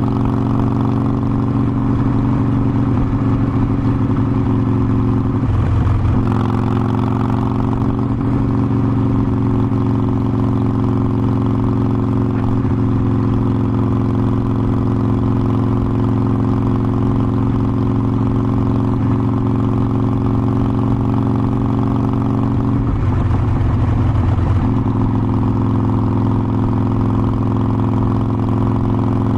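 Harley-Davidson Forty-Eight Sportster's air-cooled 1200 cc Evolution V-twin running steadily under way. Its even note breaks up briefly twice, about five seconds in and again about twenty-three seconds in.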